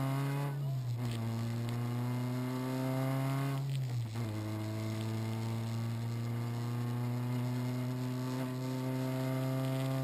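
Renault Clio RS rally car's four-cylinder engine heard from inside the cabin under hard acceleration. The engine note climbs, drops at an upshift about a second in, climbs again to a second upshift just before four seconds, then rises slowly.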